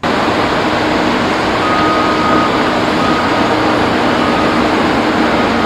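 Construction-site noise: a heavy vehicle running, with its reversing alarm beeping three times. It starts and cuts off suddenly.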